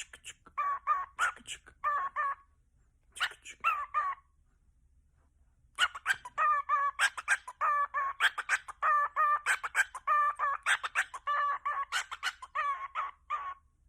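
Pet parrot beatboxing: quick runs of short, rhythmic clucking calls mixed with sharp clicks. They break off for about a second and a half near the middle, then resume in a long, dense run.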